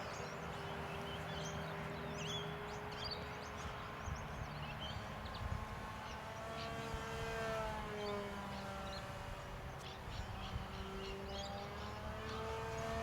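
Electric RC model plane (an E-Go Cessna 182) flying, its motor and propeller whining with a pitch that holds steady at first, then rises and falls twice as throttle and distance change. Small birds chirp throughout.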